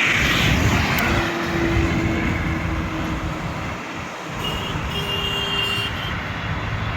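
Highway traffic: vehicles running past on the road, a steady rumble of engines and tyres with faint steady whines above it.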